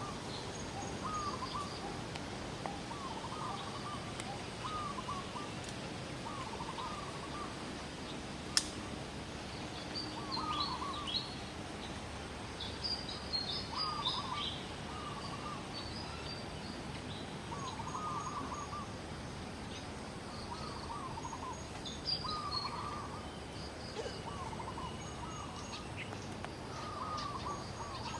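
Birds calling: a short chirping call repeats about every one and a half to two seconds, with a cluster of higher, thinner chirps from another bird partway through, over steady outdoor background noise. A single sharp click stands out about eight and a half seconds in.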